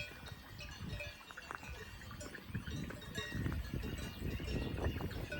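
Cowbells on grazing cattle clanking and ringing irregularly, over an uneven low rumble.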